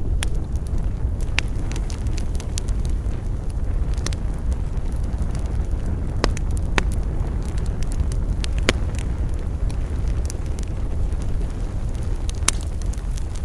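Wood campfire burning with a steady low rumble and scattered sharp crackles and pops, a few seconds apart.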